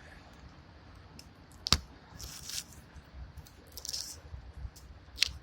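Two sharp clicks about three and a half seconds apart, with short rustling or scraping sounds between them: handling noise.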